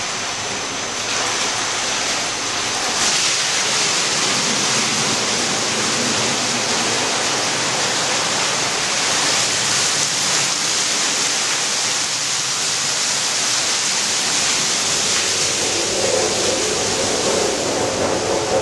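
Steady rush of flowing water at a water-powered mill, growing louder about a second in and again about three seconds in.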